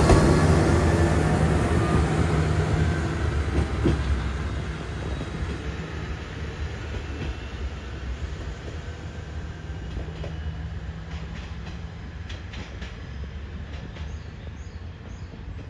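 Diesel railcar running on the rails, a steady low engine and wheel hum that grows gradually quieter, with a few faint clicks near the end.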